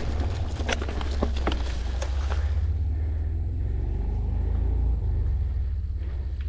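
Low rumble of wind buffeting the camera microphone while riding a mountain bike, with the tyres and bike clicking and crackling over the dirt trail for the first couple of seconds before it settles to the steady rumble.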